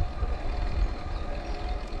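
Wind buffeting the microphone over a low rolling rumble while riding along the course, with gusty swells that ease off a little after the start.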